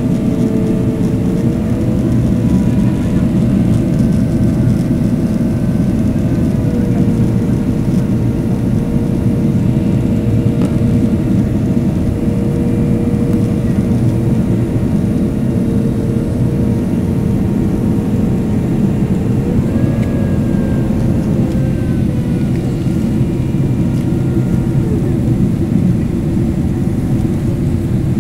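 Steady rushing cabin noise of a Boeing 767-300ER in flight, heard from a seat by the wing, with the engines' whine shifting in pitch as thrust is adjusted: it rises about two seconds in, drops a little later, and rises again for a few seconds about two-thirds of the way through.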